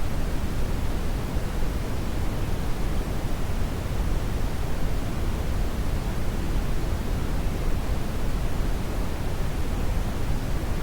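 Steady brown noise: an even, deep rushing hiss, strongest in the bass and fading toward the treble, with no changes.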